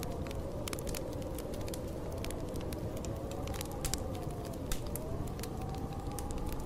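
Snowstorm wind howling with a wavering whistle that slowly rises and falls over a steady low rumble, while a wood fire crackles with frequent sharp pops.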